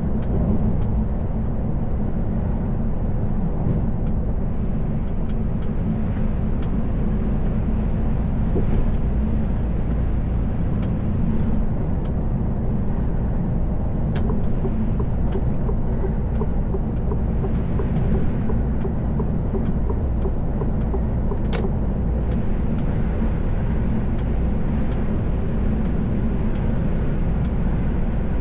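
Mercedes Actros L truck on the move, heard from the cab: a steady low engine and road drone with no change in pace. Two short sharp clicks cut in, one about halfway through and one later.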